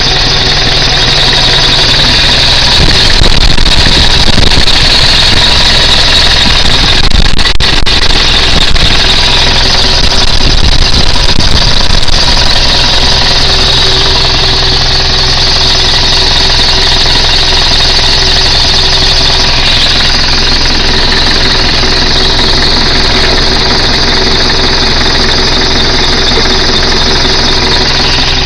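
1998 Nissan Eagle pickup's engine running steadily. It is a little louder and heavier between about three and twelve seconds in, then settles back to an even run.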